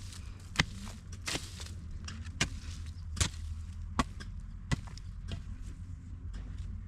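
A hand hoe chopping into garden soil with repeated strokes, about one sharp strike every three-quarters of a second.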